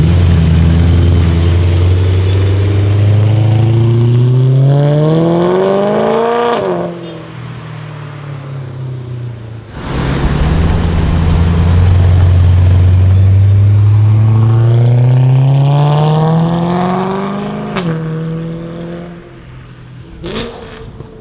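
A modified car's engine revving up twice, its pitch climbing steadily over several seconds and then dropping off abruptly, about six seconds in and again near eighteen seconds. A short sharp crack comes near the end.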